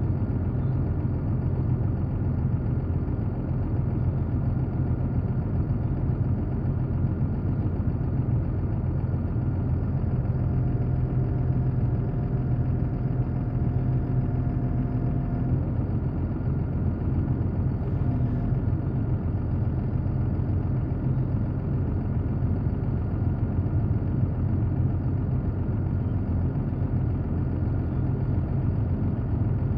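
Engine idling steadily at an even pitch. For about five seconds around the middle, a faint steady whine sits over it.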